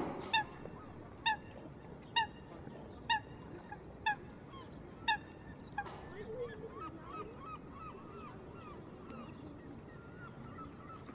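Birds calling: six loud, short calls, about one a second, over the first five seconds, then from about six seconds in a run of quieter, rapid, higher calls.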